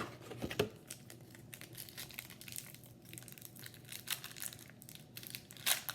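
Foil wrapper of a trading-card pack crinkling and tearing as it is opened by hand, in a run of irregular crackles with a few sharper snaps near the start and near the end.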